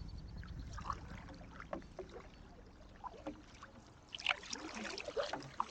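Pack canoe being paddled: quiet paddle strokes with small splashes and drips of water, busiest about four seconds in, over a low rumble that fades during the first half.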